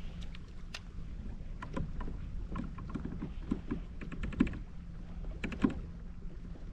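Scattered sharp clicks and small knocks of gear handled aboard a fishing kayak, in short clusters with two louder knocks past the middle, over a steady low rumble.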